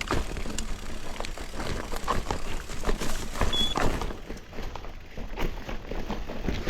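Mountain bike clattering down a trail of loose rocks: irregular knocks and rattles from the tyres striking stones and the frame and chain shaking, with one brief high squeak midway.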